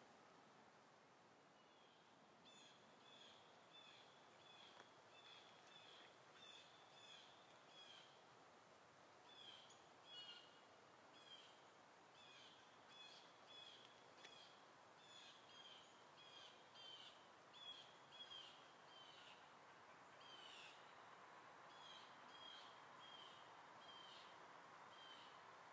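Faint bird chirping: short, high notes repeated about twice a second, with a few brief pauses, over a quiet background hiss.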